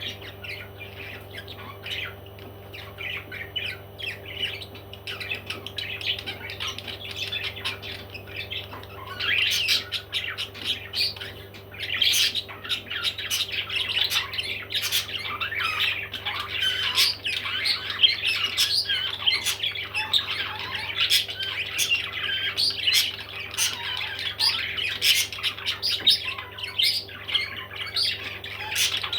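Baby parrots squawking and chirping in a dense, continuous chatter that grows busier and louder from about nine seconds in, over a steady low hum.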